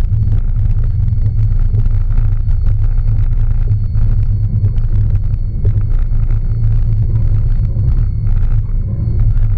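Cabin sound of a 1999 Subaru Forester's flat-four engine running in a steady low drone as the car drives a rough, waterlogged track, with short knocks and clatter scattered through it.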